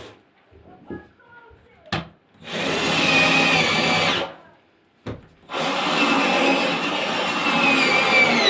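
An electric motor whining, switched off and on: it stops at once, runs again for about two seconds, stops, and starts again about five and a half seconds in. Sharp clicks sound in the pauses.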